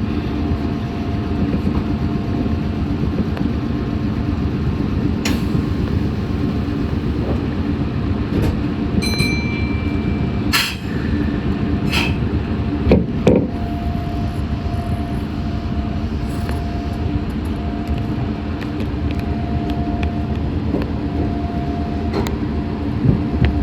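Meitetsu 6500 series electric train running, heard from inside the car: steady rumble of the wheels on the track under a constant motor hum. A brief high tone comes about nine seconds in, and a few sharp clacks follow over the next few seconds.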